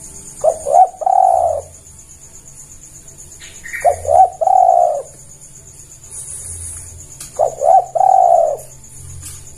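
Spotted dove (tekukur) cooing its call three times, about every three and a half seconds. Each phrase is two short notes followed by a longer drawn-out one. A steady high hiss runs underneath.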